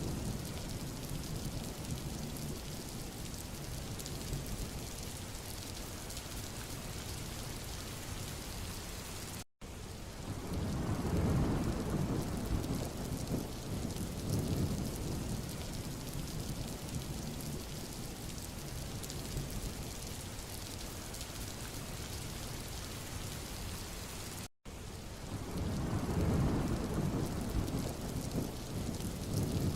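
Steady hiss of rain falling on a road, with a deep rumble that swells and fades three times: at the start, about ten seconds in and about twenty-five seconds in. The sound cuts out for an instant twice, just before the second and third swells.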